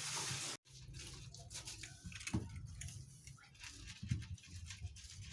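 A steady rush of running water that cuts off abruptly about half a second in, followed by faint, scattered small clicks and taps.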